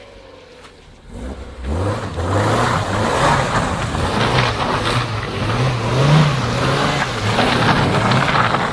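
A car engine revving hard: quiet for the first second or so, then loud from about a second and a half in, its pitch rising and falling several times.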